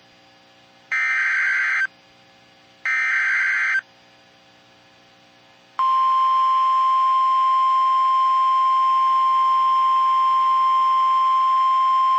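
Emergency Alert System SAME header: two one-second bursts of screechy digital data, about two seconds apart. Then, about six seconds in, the steady single-pitched 1050 Hz NOAA Weather Radio warning alarm tone starts and holds. Together these signal the start of a new alert.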